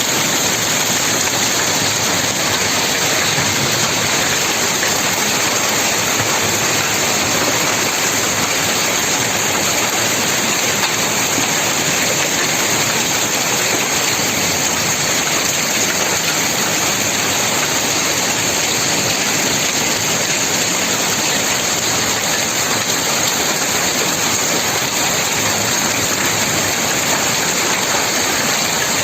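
Heavy rain pouring down steadily: a loud, even rush with no breaks or separate drops standing out.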